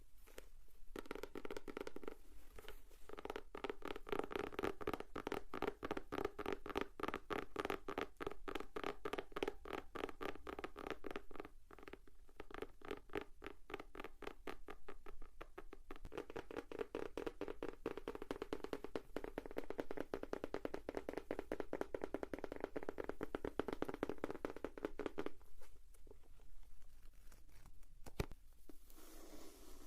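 Fingers tapping rapidly on a notebook, a quick steady run of light taps that briefly eases off about halfway through and stops near the end.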